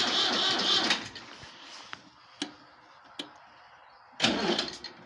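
Ford 3000 tractor's starter cranking the cold engine without it catching, cutting off about a second in. A few sharp clicks follow, then a brief loud burst near the end.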